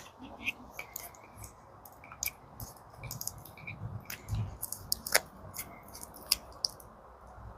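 Wiring sub-harnesses being handled and sorted: scattered light crinkles and clicks, with a dull thump about four and a half seconds in.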